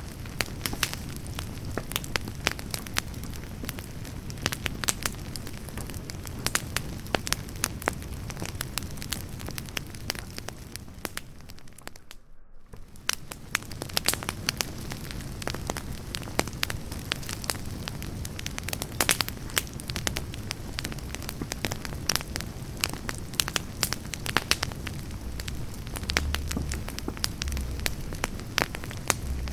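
Wood campfire burning, its logs crackling and popping over the low rumble of the flames. The sound drops out almost entirely for under a second near the middle, and a few stronger low rumbles come near the end.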